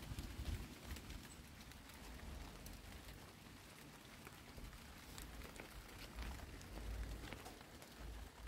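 Light rain falling on garden plants, a soft even patter with scattered drop ticks, and a low rumble on the microphone now and then.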